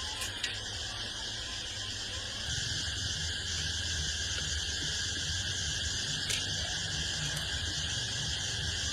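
A steady chorus of crickets and other insects, with a low hum that comes in about two and a half seconds in and a few faint clicks.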